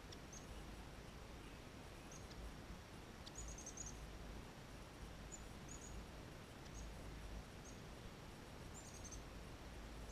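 Faint, high, short bird chirps scattered over a steady outdoor hiss, twice in quick runs of four or five notes, with a low rumble underneath.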